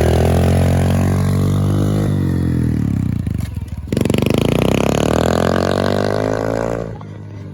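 Small dirt bike engine revving under throttle. The pitch sags at about two seconds, cuts out briefly before four seconds, then climbs again, and the engine drops away near the end.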